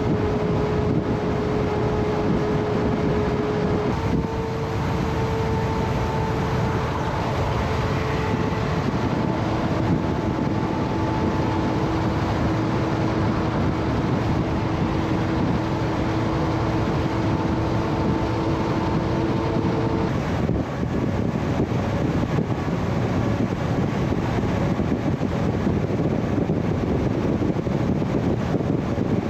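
Heavy-haul truck on the move, a steady drone of engine and road noise with a humming tone that shifts pitch twice and drops out about two-thirds of the way through.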